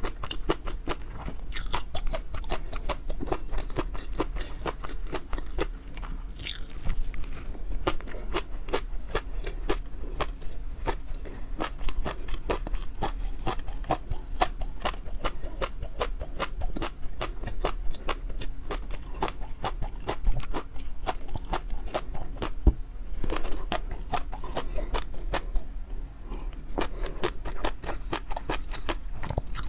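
Close-miked mouth eating sounds: continuous chewing and biting, a rapid run of crisp, wet clicks and crunches, over a steady low hum.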